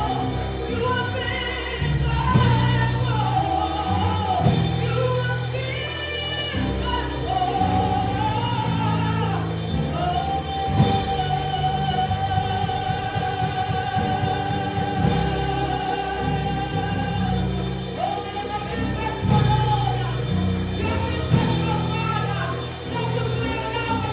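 Live gospel worship song: singing over a band accompaniment, with a long held sung note about halfway through.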